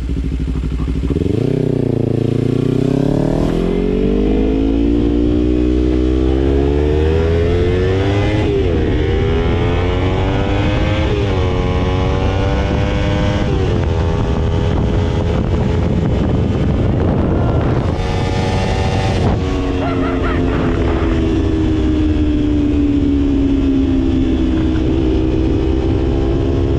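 Motorcycle engine accelerating hard through the gears: the pitch climbs, drops at each upshift about 3, 8 and 13 seconds in, then holds and eases off to a steady cruise. Wind rush is underneath throughout.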